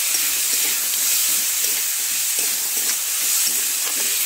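Diced potatoes and onion sizzling steadily in hot mustard oil in a kadai, stirred with a spatula that scrapes lightly against the pan now and then.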